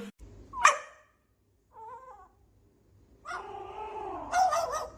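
A pet animal vocalising: a short sharp cry, a brief wavering cry, then a longer cry that bends up and down in pitch.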